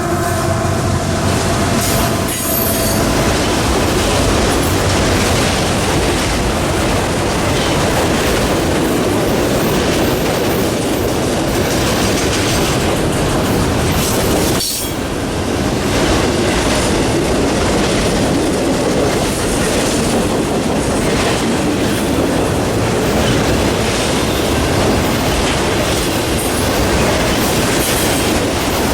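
Freight train passing close by: the steady rumble and rattle of cars rolling over the rails, with a locomotive horn trailing off in the first couple of seconds.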